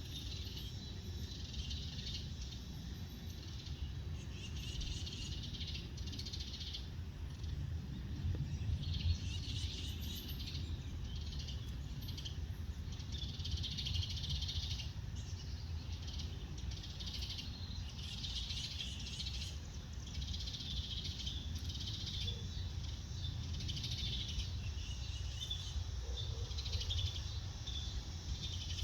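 Outdoor ambience of small birds chirping repeatedly in short high-pitched bouts, over a steady low rumble.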